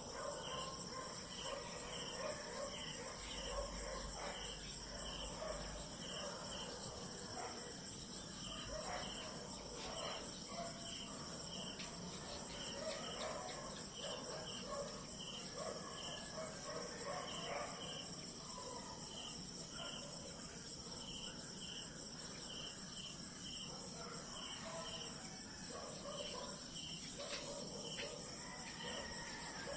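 Night insect chorus: a steady high trill with a regular chirp repeating about twice a second, crickets among them, over scattered lower calls.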